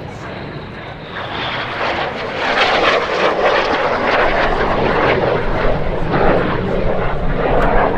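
Red Arrows BAE Hawk T1 jets, with Rolls-Royce Turbomeca Adour turbofan engines, flying past low over the airfield. The jet noise grows louder about two seconds in and stays loud.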